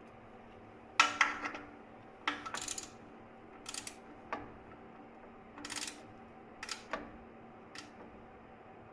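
Metal hand tools clicking and clinking in short, irregular bursts, about a dozen sharp hits in all, while the oil drain plug is being refitted and tightened.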